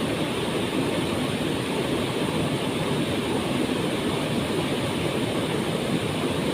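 Waterfall: a steady, unbroken rush of falling water, heaviest in the low-middle range.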